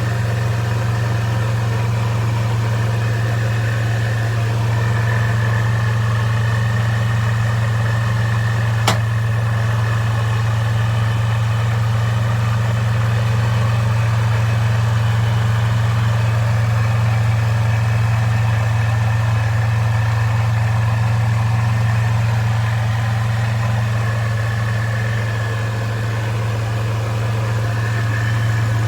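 Supercharged Toyota 3.4-litre V6 (5VZ-FE) idling steadily during warm-up after a cold start. A thin high tone rises in a few seconds in, fades, and comes back near the end. One sharp click sounds about nine seconds in.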